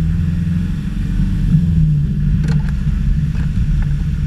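Land Rover Discovery engine running with a steady low drone as the vehicle drives along a rutted dirt track, with a few faint short knocks about halfway through.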